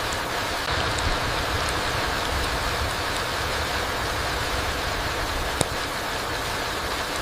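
Steady rain falling through forest, an even hiss of drops with a low rumble underneath. A few faint drip ticks, and one sharp drop click about five and a half seconds in.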